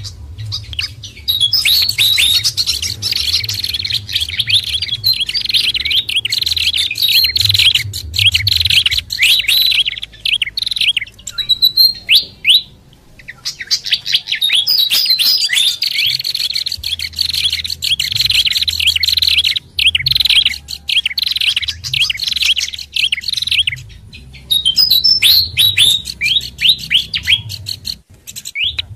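Bird-lure recording of small songbirds chirping fast and densely in overlapping high calls. The mix is of pied fantail, babbler and prenjak calls, with short breaks around a third of the way in and again near the end. A low hum runs underneath.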